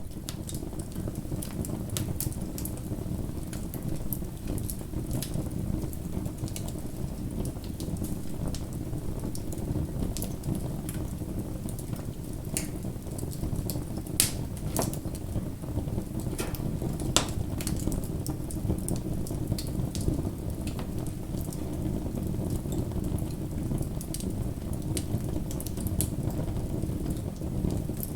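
Wood fire burning: a steady low noise of burning with irregular sharp crackles and pops scattered throughout.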